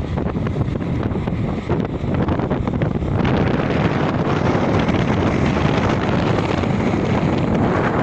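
Strong wind buffeting the microphone high up on a crane, a dense rumbling roar that gets louder about three seconds in.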